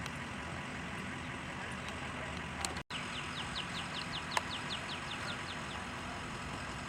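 Steady outdoor background noise, briefly cutting out about three seconds in; just after, a small bird sings a quick trill of short, high, falling chirps, about five a second, for nearly three seconds.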